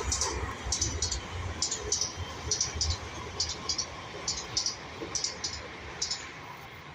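MTR East Rail line R-train running past: a low rumble with a string of sharp high clicks, often in pairs, fading away toward the end.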